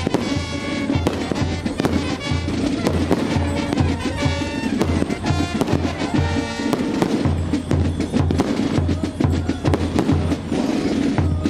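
Fireworks bang and crackle irregularly over music with a steady bass beat.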